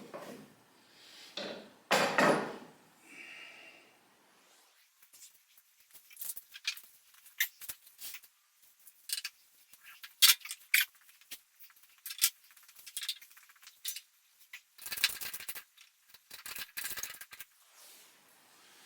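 Small metal parts and tools being handled, clinking and clicking irregularly, with a duller knock about two seconds in and a brief scraping rustle near the end.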